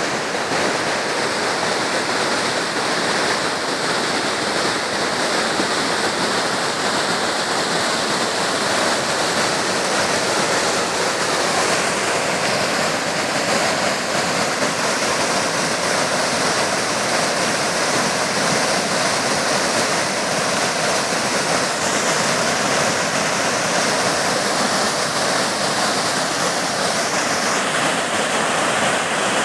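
Steady rushing of water pouring over a waterfall.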